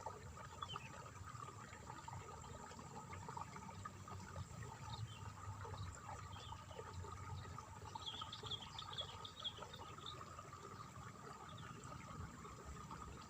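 Water trickling steadily through a rice paddy, a faint continuous splashing. A brief run of small chirps rises over it about two thirds of the way through.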